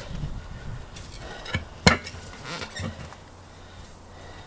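Steel tyre levers clinking and knocking against a wheel rim while a tyre is worked by hand: a few sharp metallic clinks, the loudest about two seconds in.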